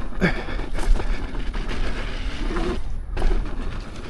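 Wind buffeting the microphone and an electric unicycle's tyre rumbling over a dirt trail during an off-road ride, with a few sharp knocks from bumps.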